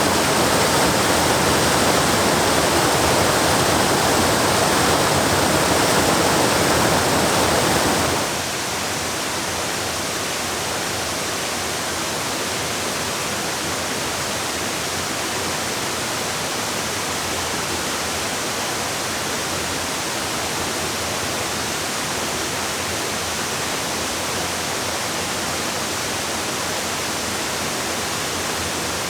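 Waterfall water rushing steadily. About eight seconds in it changes abruptly to a quieter, thinner, hissier rush of water.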